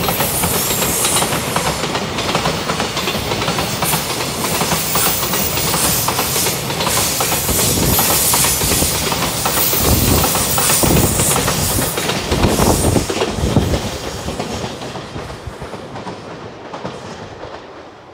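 Freight train of container flat wagons passing close by, its wheels clacking over the rail joints. The sound fades away over the last few seconds as the end of the train moves off.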